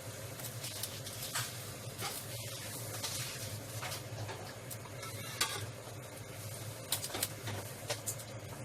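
Scattered light clicks and knocks of cookware being handled in a kitchen, over a steady low hum.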